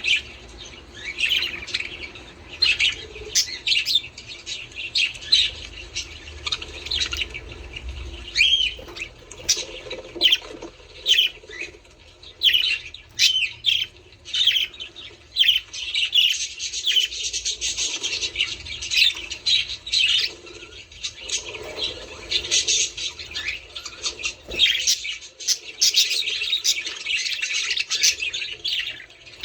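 Budgerigars chattering: a dense, continuous run of short warbling chirps and squawks, several birds calling over one another.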